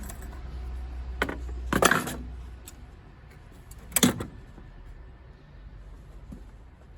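Sharp clicks and knocks of boiler parts being unclipped and handled during dismantling: one about a second in, the loudest cluster about two seconds in and another near four seconds, over a low steady hum.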